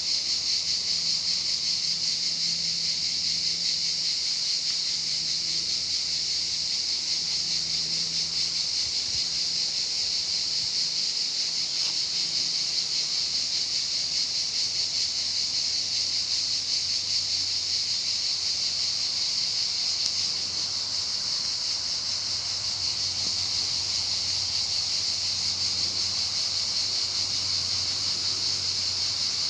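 Many cicadas singing together: a dense, steady high-pitched buzz that holds without a break.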